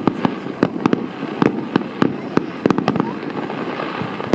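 Fireworks going off in a quick irregular run of sharp bangs, several a second, over a steady rumbling haze.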